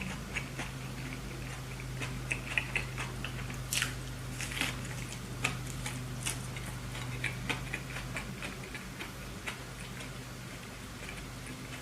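A person chewing a burger close to the microphone: irregular clicks and smacks from the mouth, over a steady low hum.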